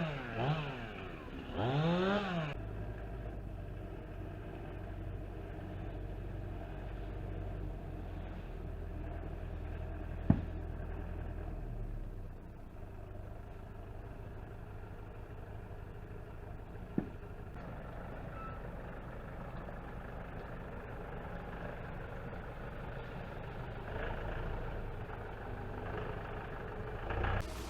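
A chainsaw revs up and down a couple of times, then drops away; after that a steady low engine idle runs on, with two sharp knocks, about ten and seventeen seconds in.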